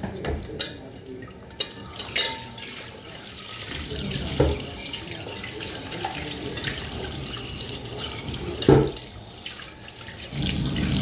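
Tap water running into a sink during dishwashing, with several sharp clinks and knocks of dishes. The loudest knock comes about two seconds before the end.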